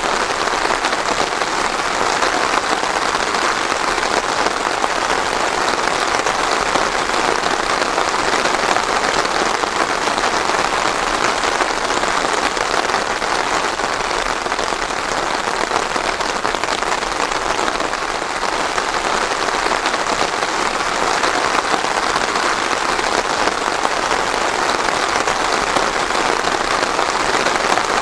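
Steady rain falling on a surface, an even pattering hiss without thunder.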